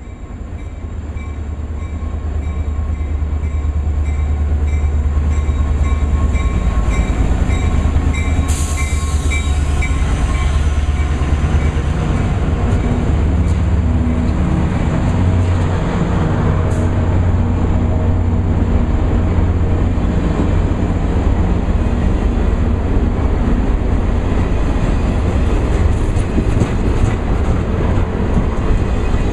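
Caltrain diesel commuter train running, a deep steady rumble that builds over the first few seconds and then holds, with a brief hiss about eight seconds in.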